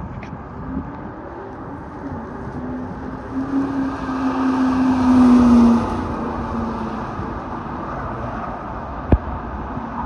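1999 Ford Mustang SVT Cobra's V8 driving an autocross course, its engine note rising and growing louder to a peak about five to six seconds in, then dropping lower and fainter as the car moves away. A single sharp knock near the end.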